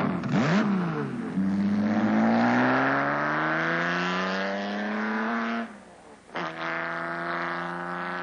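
Sports car engine pulling hard, its note climbing steadily for about four seconds, then a brief lift and a change up into the next gear, running on at a steadier note. Rough, uneven engine bursts with quick dips in pitch come in the first second.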